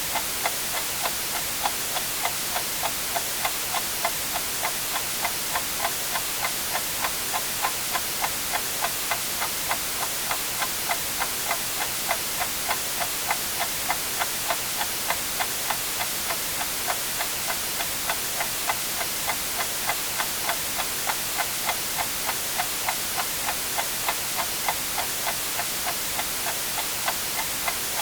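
A clock ticking steadily, several even ticks a second, over a continuous hiss of white noise.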